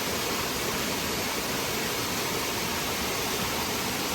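Steady, even rush of a waterfall and mountain stream, with no break or change.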